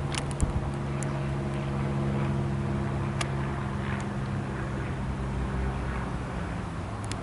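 Piper PA-28 Cherokee light aircraft's propeller engine running with a steady drone, easing off slightly towards the end, with a few faint clicks on top.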